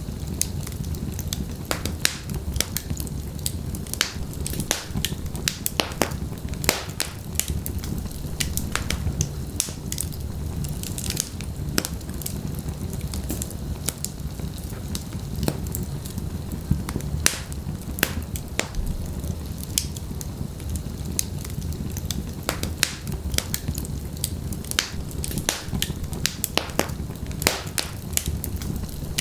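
Wood fire burning in a fireplace: logs crackling with frequent sharp, irregular pops over a steady low rumble of the flames.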